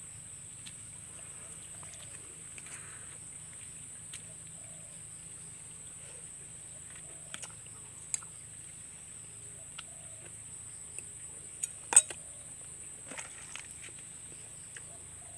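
Sparse light clicks of cooked snail shells knocking against each other and the plastic tub as they are picked through by hand, with one sharper click about twelve seconds in. A steady high-pitched hiss runs underneath.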